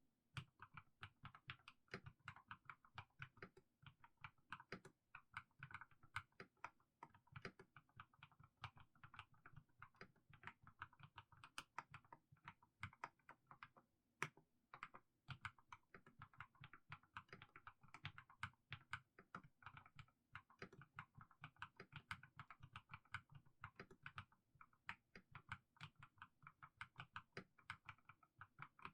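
Mechanical keyboard with fully lubricated Haimu Sea Salt switches being typed on slowly: a steady run of keystrokes, several a second, each a short clack.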